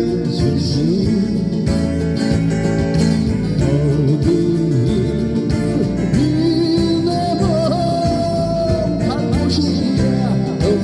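Live band music with guitar: an instrumental passage in which a sustained melody line glides over steady chords and bass.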